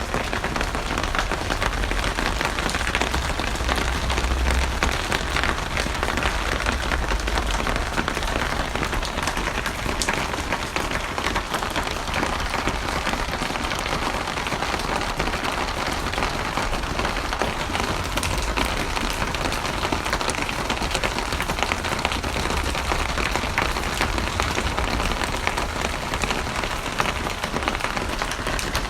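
Steady heavy rain falling on a surface, a dense, even patter of drops, with a low rumble underneath that swells now and then.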